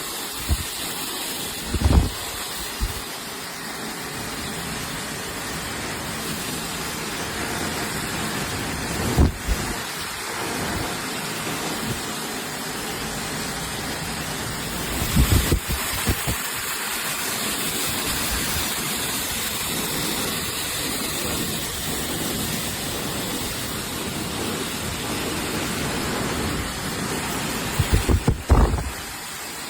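Hair dryer blowing, a steady rushing noise, broken by a few short low thumps.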